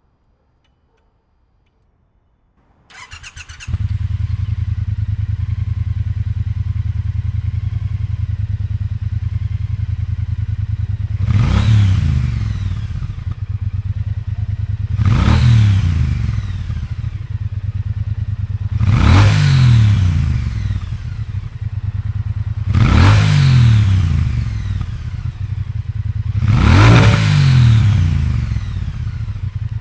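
A 2022 Triumph Bonneville T120's 1200 cc parallel-twin, fitted with Predator Carbon 3.5-inch exhaust silencers with the catalytic converter still in place. It cranks briefly about three seconds in, catches and idles steadily. From the middle on, it is blipped five times, the revs rising and falling back to idle about every four seconds.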